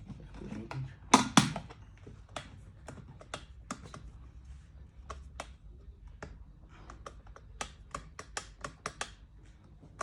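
Irregular series of small clicks and taps, several a second, from the plastic parts of an electric kettle being handled during repair, with a few louder knocks about a second in.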